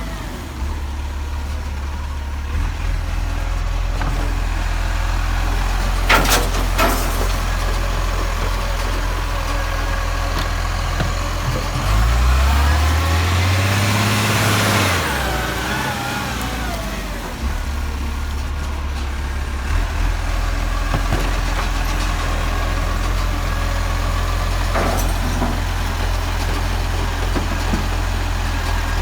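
Garbage truck's diesel engine running at idle. About twelve seconds in it revs up and back down over a few seconds, then settles to idle again. Two sharp knocks land apart, one near the start and one late on.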